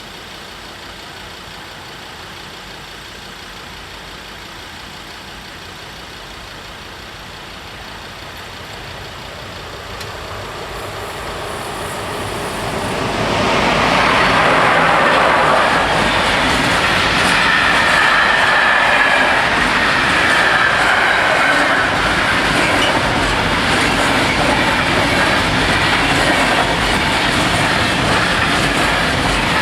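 A Green Cargo freight train approaches, growing louder over a few seconds, then runs past at the level crossing: the steady loud rumble and rattle of its wagons rolling over the rails.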